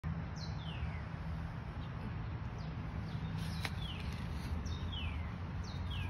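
A bird calling: short chirps that each slide down in pitch, about one a second, over a steady low rumble, with one sharp click about halfway through.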